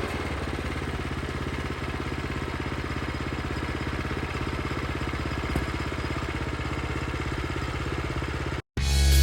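Small gasoline engine of a portable bandsaw sawmill running steadily at a low, even idle after easing down at the start. Near the end it cuts off abruptly.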